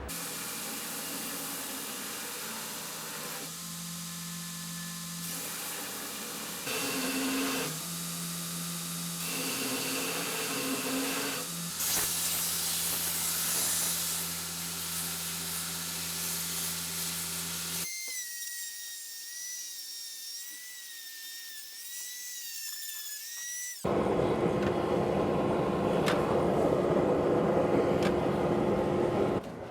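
Power grinder grinding the faces of a forged steel hammerhead, in several cut-together passes. About two-thirds of the way through, the grinding noise gives way for several seconds to a thin wavering whine, then comes back louder.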